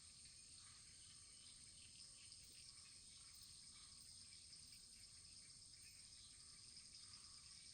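Faint wood fire burning in a fireplace: a steady soft hiss with small, scattered crackles.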